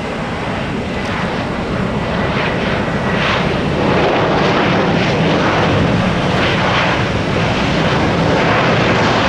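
Jet airliner engines, a loud steady rush of noise that builds over the first few seconds and then holds.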